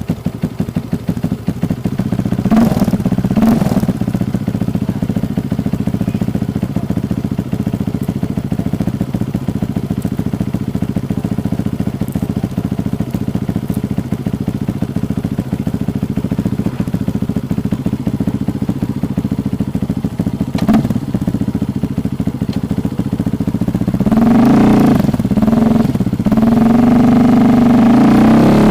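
Honda CRF150L single-cylinder engine, bored up to 250 cc, running through an original Norifumi Rocket 4 aftermarket exhaust. It idles steadily with short throttle blips a few seconds in and once more later, then is revved hard several times near the end and held at high revs.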